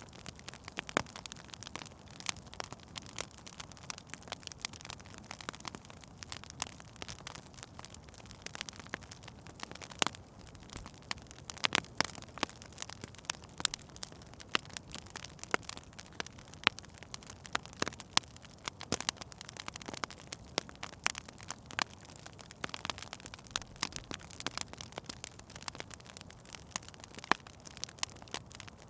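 Wood fire crackling in a fireplace: irregular sharp pops and snaps, a few of them louder, over a low steady rush of the flames.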